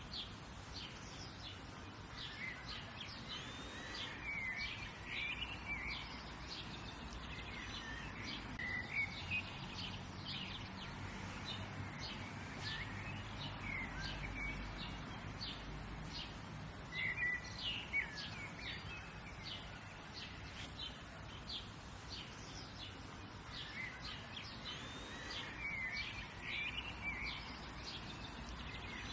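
Wild birds chirping and singing: a steady stream of quick, high chirps with a warbling phrase that comes back every few seconds, over a faint low background rumble.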